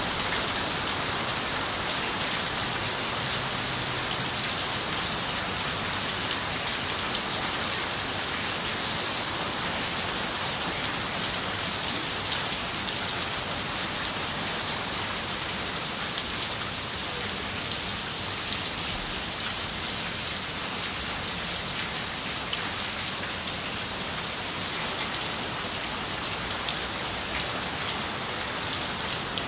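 Steady rain falling on a window pane: an even hiss of rain with scattered sharper drop ticks.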